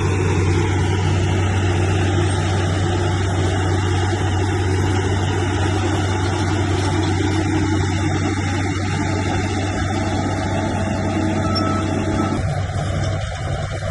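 Bulldozer's diesel engine running steadily and loudly with a deep hum, easing slightly near the end.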